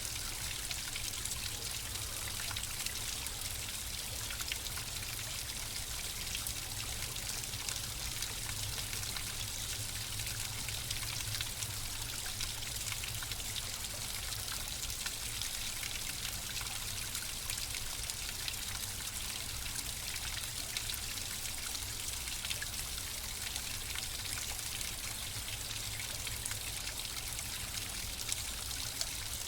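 Flowing water running steadily, a continuous trickling and splashing with a low rumble underneath.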